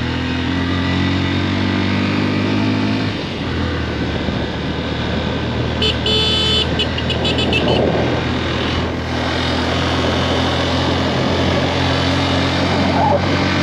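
Motorcycle engine running steadily while riding. About six seconds in a high-pitched horn sounds, one short blast followed by several quick toots.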